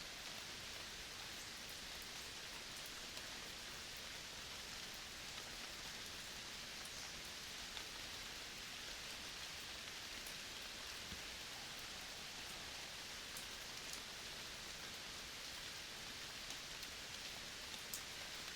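Steady, even hiss of a tropical forest soundscape, strongest in the high range, with faint scattered ticks throughout.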